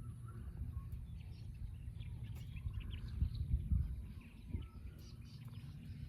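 Birds chirping here and there over a steady low rumble of outdoor background noise.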